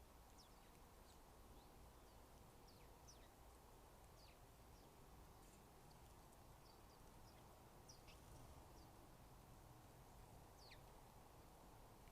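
Faint, scattered chirps of small backyard birds: short high notes that slide downward in pitch, coming irregularly about once or twice a second.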